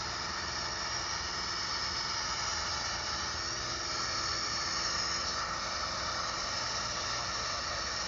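Steady engine drone and hiss heard inside a small plane's cabin in flight.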